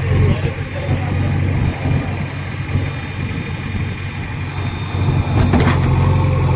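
Heavy diesel engine of a backhoe loader or tractor running steadily, with a few knocks about five and a half seconds in.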